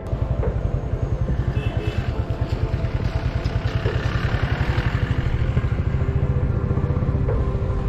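Motorcycle engine running steadily under way, with a rapid even pulse, and a rushing road noise that swells about halfway through.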